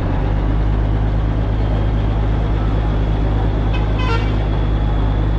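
A heavy engine runs steadily with a low, even drone, and a short horn toot sounds about four seconds in.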